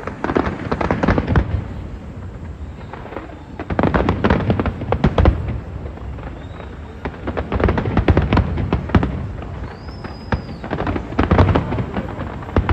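Fireworks going off in rapid volleys of bangs and crackles over a low rumbling boom, coming in waves every few seconds, with a short whistle about ten seconds in.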